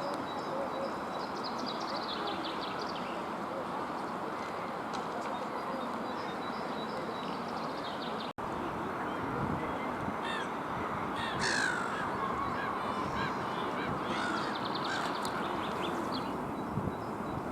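Birds calling: clusters of short harsh calls, some sliding down in pitch, over a steady background of low noise, with a brief dropout about eight seconds in.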